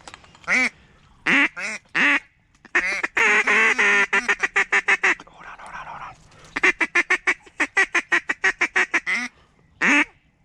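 Loud duck-style quacking calls: a few single quacks, then two long fast runs of quacks, and one more single quack near the end. It is a hunter's call sequence to bring the circling bird back.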